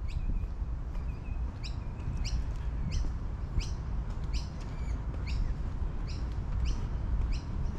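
A bird repeating one short, sharp, falling call over and over, about three calls every two seconds, starting a little over a second and a half in, over a steady low background rumble.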